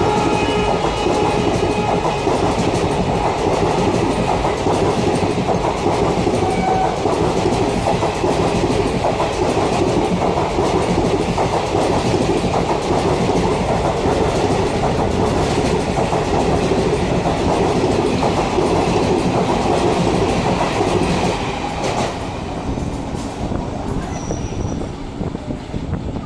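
Express train passing at speed, wheels clattering over the rail joints in a loud, steady rush that eases off in the last few seconds as the train clears. The last of a horn blast dies away in the first second.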